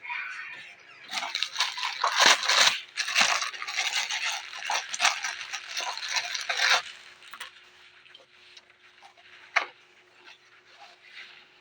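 Close-up crunching and chewing of raw vegetables in the mouth: a run of loud crisp crunches for about six seconds, then quieter chewing with a few small clicks.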